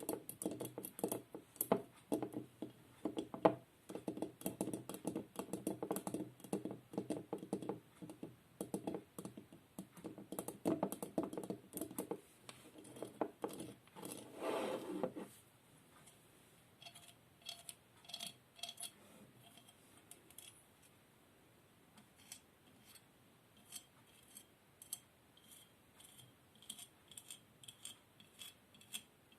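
ASMR trigger sounds: rapid tapping and clicking on small hard objects close to the microphone, dense for about the first half with a brief rustle near the middle, then fainter, sparser clicks.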